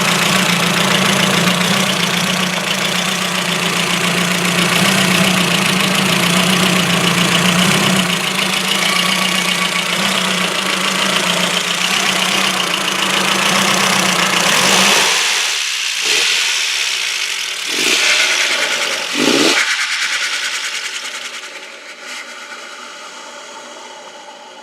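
Ford Focus RS Mk1's engine idling with a misfire. About fifteen seconds in the low engine rumble drops away, a few short sounds follow, and the sound fades.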